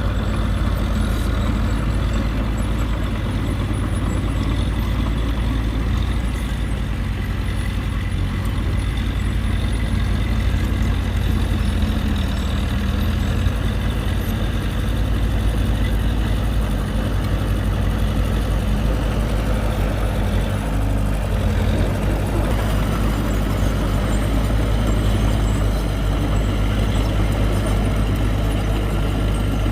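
Diesel engine of heavy earthmoving equipment running steadily with a deep, low rumble.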